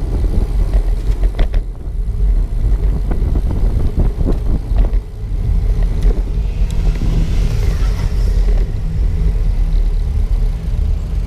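Bicycle ride: a steady, fluctuating low rumble of wind and road noise on the moving camera's microphone. There are a few sharp clicks or rattles in the first half, and a faint hiss swells up and fades about six to eight seconds in.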